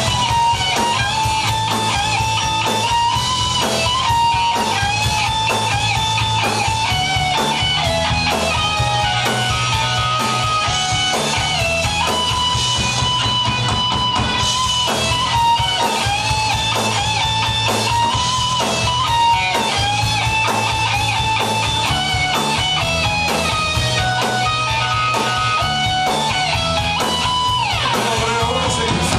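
Live punk rock band playing an instrumental passage: guitars to the fore over bass, with a steady beat.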